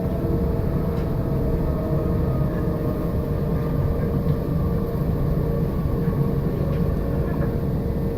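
Passenger train running along the line, heard from inside the carriage: a steady rumble with a faint steady hum over it.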